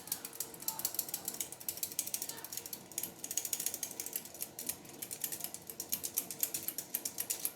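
Flour sifter being worked by hand, its mechanism clicking rapidly at about eight to ten clicks a second as flour is sifted out, with a brief pause about three seconds in.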